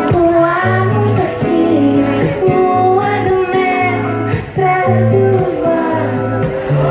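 A woman singing a pop ballad melody over a band with guitar and a steady, repeating bass line.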